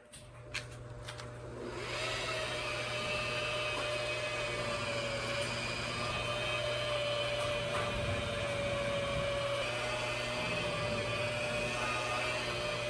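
Electric buffer starting up and spinning up over about two seconds, then running at a steady speed with a level whine while it buffs an oxidized plastic headlight lens with heavy-cut compound.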